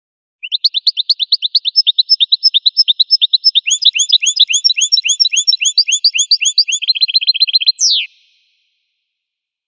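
Goldfinch singing one long song phrase of quick, rising whistled notes, about seven a second, with a second, higher run of notes over the middle. It ends in one sharp falling note near the end.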